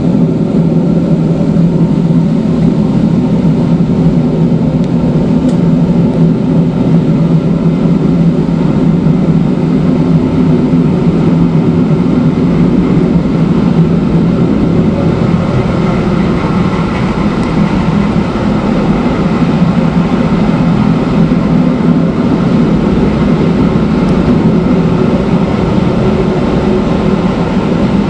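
Matterhorn Gotthard Bahn electric rack train running downhill on its cog section: a loud, steady drone of running gear and wheels on rail, with a low steady hum.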